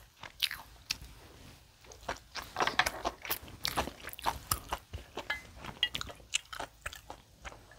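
Close-miked eating sounds: a person chewing and biting food, with irregular short wet clicks and crackles.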